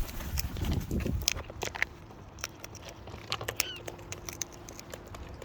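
Wild cockatoos feeding at close range: scattered sharp clicks and taps of beaks and claws, with a low rumble in the first two seconds and a brief faint bird call about three and a half seconds in.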